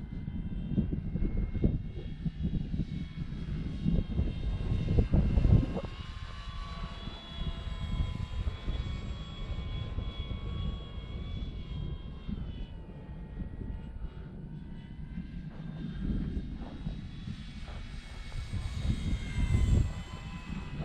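Electric motor and propeller of a radio-controlled Dynam Hawker Hurricane V2 whining in flight, the pitch wavering and dipping as the plane moves, with gusty wind rumbling on the microphone.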